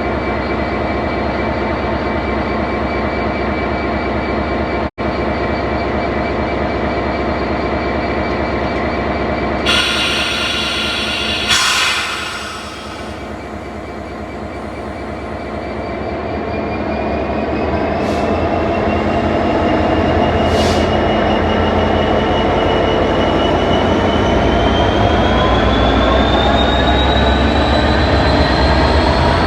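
Class 66 diesel locomotive with its EMD two-stroke V12 running steadily, a short burst of air hiss about twelve seconds in, then the engine note rising slowly in pitch and growing louder through the second half as the locomotive powers up.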